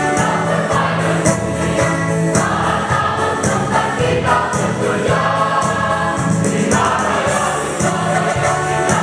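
Mixed choir singing a march in unison with instrumental accompaniment.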